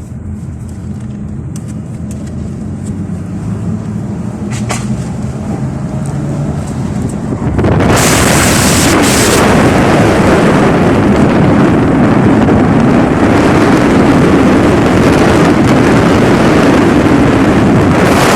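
Ford Mustang on the move: a low engine hum rising slowly in pitch as the car gathers speed, then about eight seconds in a sudden loud rush of wind and road noise takes over and drowns it out.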